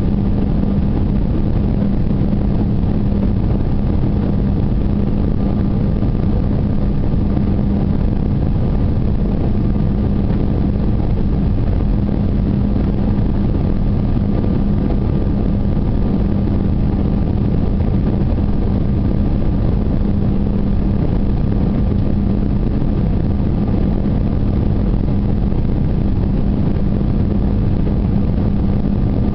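Steady cabin noise inside an Airbus 319 airliner in flight: engine drone and rushing air with a constant low hum and a faint high tone, unchanging throughout.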